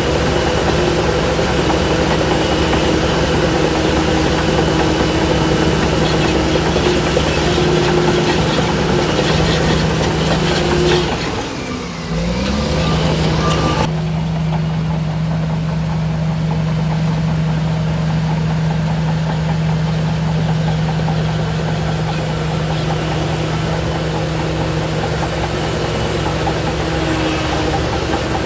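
Heavy diesel engine of earthmoving machinery running steadily. About twelve seconds in, its note sags briefly and then climbs back up, and soon after the sound changes abruptly.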